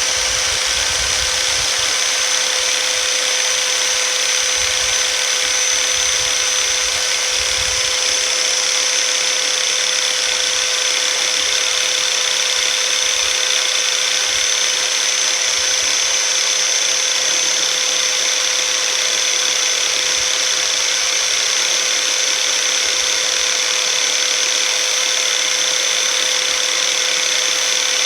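Electric drill machine running at steady speed with a constant whine, spinning a mixer-grinder armature clamped in its chuck while a file is held to the shaft to smooth the scoring left by the worn, dry bushings.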